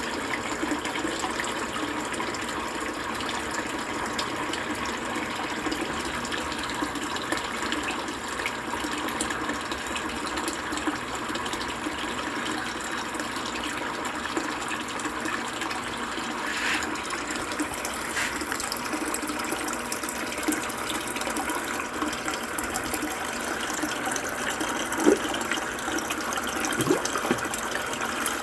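Steady rush of water running in a Brastemp Ative 11 kg washing machine, with one sharp knock near the end.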